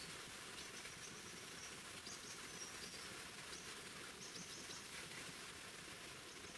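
A small bird chirping in short, high calls, several in quick succession at times, over a faint steady outdoor hiss.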